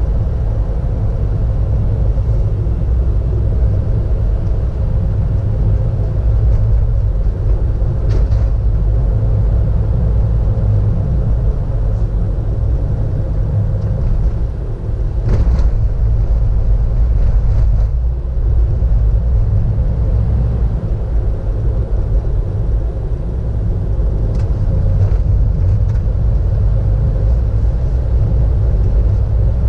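Car driving along a road, heard from a dashboard-mounted camera inside: a steady low engine and road rumble, with a few short knocks now and then.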